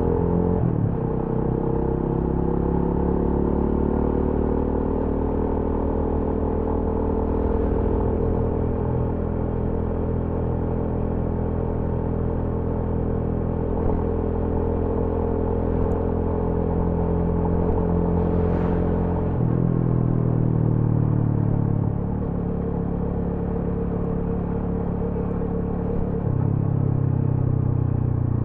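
TVS Apache RTR 200 4V's single-cylinder engine and exhaust running under way. The note stays steady with a few small shifts in pitch and loudness, near the start and around two-thirds of the way through.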